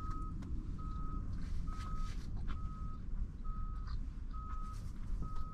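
Vehicle reversing alarm beeping, a single steady tone repeating about once a second, over a low background rumble.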